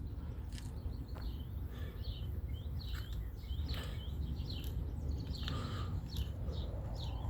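Small birds chirping in many short, gliding calls, over a steady low rumble.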